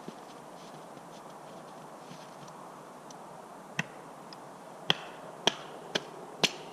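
An axe striking a piece of firewood to split it: five sharp knocks, the last four in quick succession about half a second apart.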